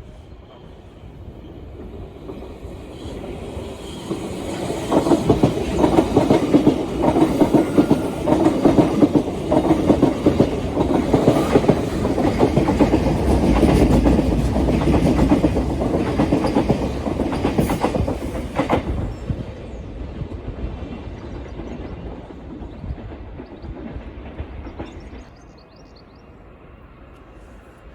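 A train passing through the station without stopping: its wheels clatter over the rail joints in a quick, uneven rhythm, building up over the first few seconds, loudest for about twelve seconds, then fading away.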